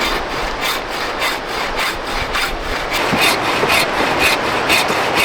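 Steel folding-knife blade scraping and shaving dry spruce wood in quick, even strokes, about three a second, to make kindling and fine tinder.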